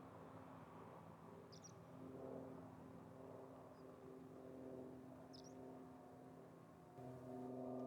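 Faint steady drone of a distant aircraft, a low hum of several tones that swells slightly about two seconds in and again near the end. Two brief bird chirps, about a second and a half and five seconds in.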